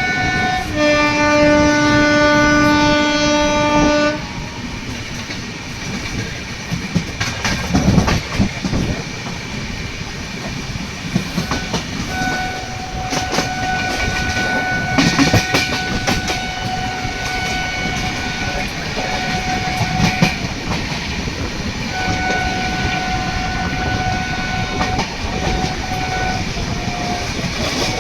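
An express train passes through a station without stopping. The locomotive horn sounds one loud blast lasting about three seconds at the start. The coaches then rumble past, clattering over rail joints, and a thinner steady tone comes and goes from about twelve seconds in.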